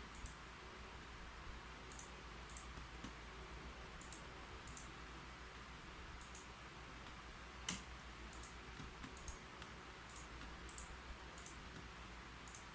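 Keyboard keys clicking in slow, irregular, faint keystrokes, with one louder click about halfway through, over a steady low hiss.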